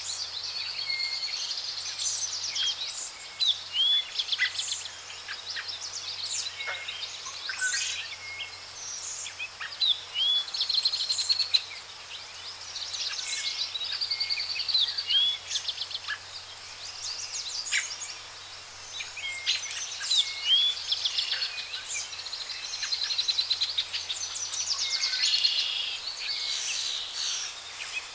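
A chorus of many birds calling at once: short rising whistled chirps and fast trills overlap continuously.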